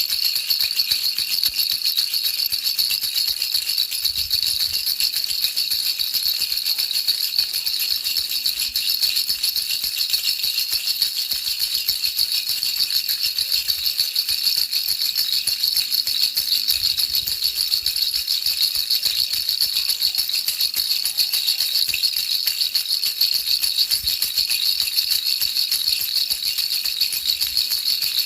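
A baby's rattle shaken continuously, a steady bright rattling with fast, even shakes and no pauses.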